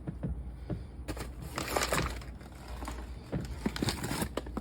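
Hands rubbing grated frozen butter into a flour mixture in a bowl: irregular gritty, crumbling rustles with small clicks as the mix is worked toward a sandy texture.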